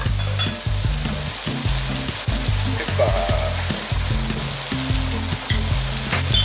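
Chicken fried rice with egg sizzling steadily in a hot frying pan, over background music with a bass line.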